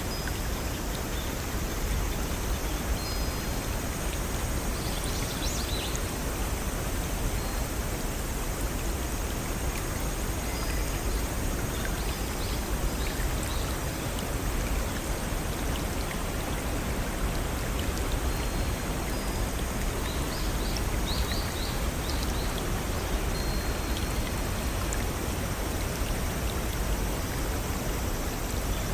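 Small forest stream and waterfall running with a steady rush of water, with scattered short, high bird chirps over it.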